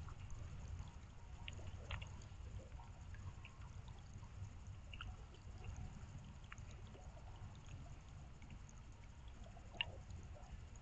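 Rain dripping: single drops tick irregularly over a low steady rumble, with one sharper drop near the end.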